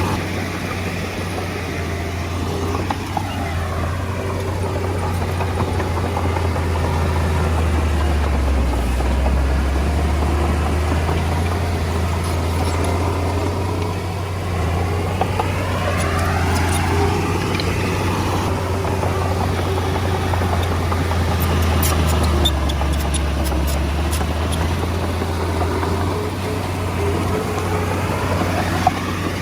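Komatsu D20A bulldozer's diesel engine running steadily, with a whine that rises and falls again about every 12 to 13 seconds as the dozer works back and forth. A few sharp clicks come a little past two-thirds of the way through.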